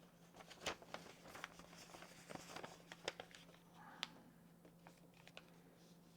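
Faint rustles and light taps of a sheet of printer paper being handled and folded, a few sharper clicks among them, over a faint steady hum.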